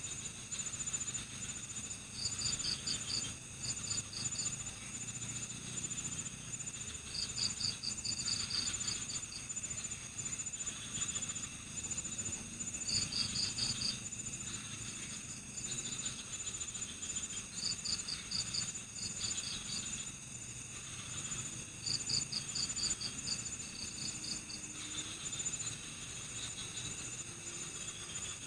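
Night-time chorus of crickets: a steady, fast high trill throughout, with short bursts of quick chirps repeating every second or two.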